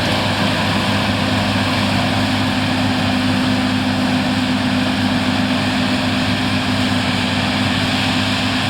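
John Deere S690i combine harvester running steadily while combining barley: an even engine drone with a constant low hum.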